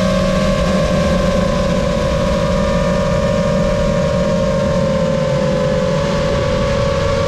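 Brushless motors and propellers of a 5-inch FPV freestyle quadcopter, the Lumenier QAV-S, whining at a steady pitch that drifts slowly up and down, over a low rush of wind and air.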